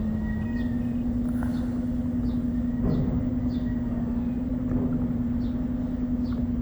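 A small motor running with a steady hum that steps up slightly in pitch about half a second in, over a low rumble.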